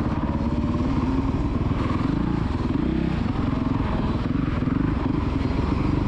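Dirt bike engine running under throttle, its pitch dipping and then climbing again about halfway through.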